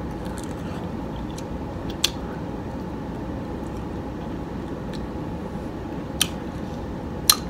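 A person chewing a mouthful of soft pineapple, with a few short, faint mouth clicks about two seconds in and twice near the end, over steady background noise.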